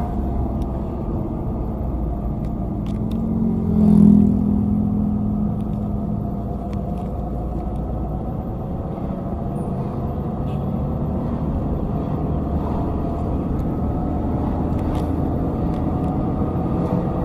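Steady low rumble of heavy vehicle engines running, with one engine swelling louder for a moment about four seconds in.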